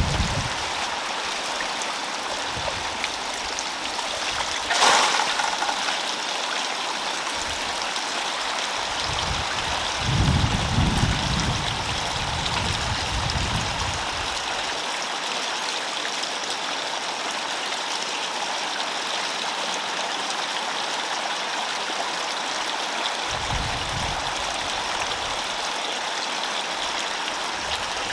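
Steady rush of running water, with one sharp knock about five seconds in and a few brief low rumbles.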